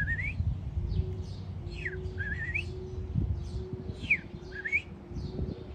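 A person whistling bird-like calls in imitation of a robin: three swooping whistles, each dipping then rising, about two seconds apart, with fainter high chirps between them and a low rumble beneath.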